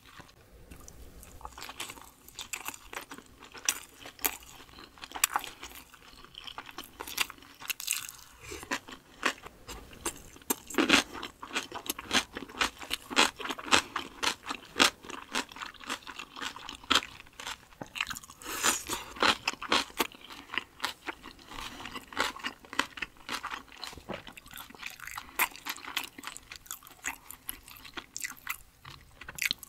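Close-miked chewing of dumplings and crunchy cucumber kimchi: a dense, irregular run of crisp crunches, busiest around the middle.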